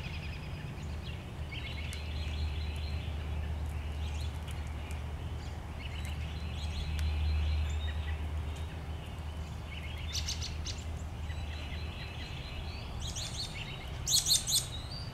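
Wild birds calling in repeated short trills, with sharper, louder high chirps about ten seconds in and again near the end, over a steady low background rumble.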